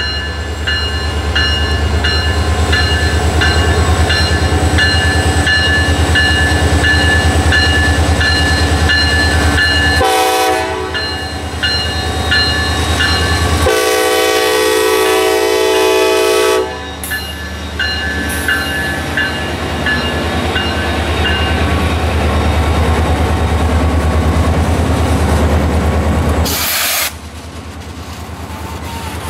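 CSX EMD SD40-3 diesel locomotive passing close with its engine rumbling and a bell-like ringing repeating evenly, its horn blowing a short blast about ten seconds in and a longer blast of about three seconds a few seconds later. Near the end the locomotives are past and the sound drops to the quieter rolling of freight cars.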